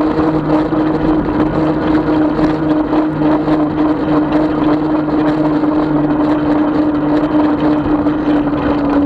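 36-volt electric bike's motor whining steadily while riding, its pitch easing slightly lower, over a continuous rush of tyre and wind noise.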